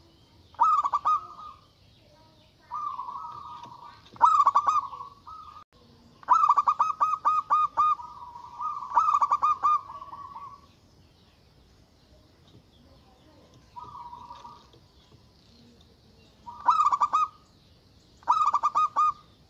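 Zebra dove (perkutut) cooing in repeated phrases of quick staccato notes, about eight phrases with short pauses between them, some loud and some fainter.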